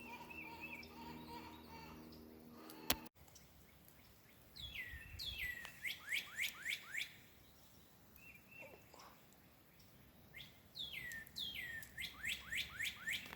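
A songbird singing two phrases of quick, clear whistles, each note sliding down in pitch and the notes coming faster through the phrase. Before the first phrase, a faint steady hum with several tones ends in a sharp click about three seconds in.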